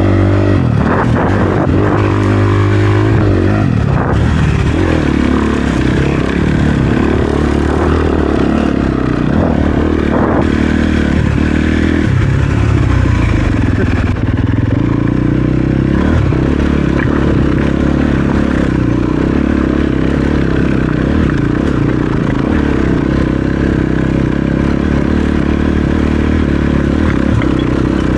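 Dirt bike engine running under load on a rocky trail, the revs rising and falling again and again as the throttle is worked, with clattering and scraping from the bike over rocks.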